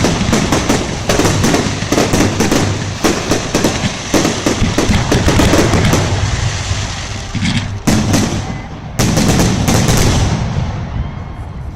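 Fireworks display, many bangs and crackles in rapid succession that thin out and fade near the end.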